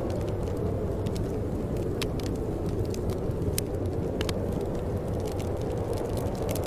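Wood fire burning in a fireplace: a steady low rumble from the flames, with scattered sharp crackles and pops at irregular moments.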